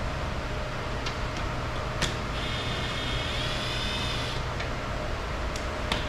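A small motor whines for about two seconds midway, its pitch creeping up slightly, among a few light clicks over a steady low rumble.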